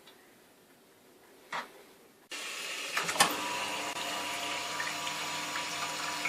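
Rocket espresso machine's pump starting abruptly a little over two seconds in and running steadily with a hum and rushing water, after a single click. The owner is unsure whether the pump sounds faulty.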